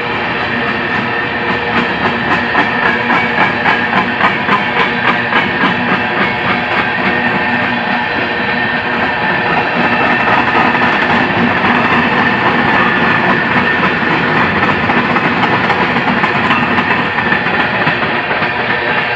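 Train running on rails. For the first few seconds the wheels clack rhythmically over rail joints, about two or three clacks a second, then it settles into a steady rumble with a faint high whine.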